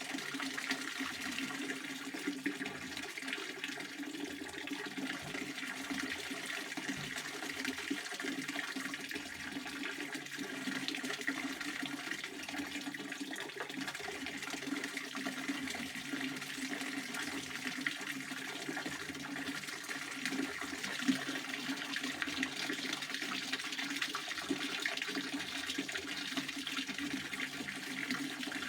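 Pond water fountain splashing steadily and without a break.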